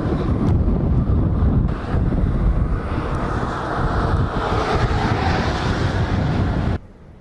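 Wind buffeting the microphone over the deep rumble of a moving vehicle. The noise cuts off abruptly near the end to a much quieter hiss.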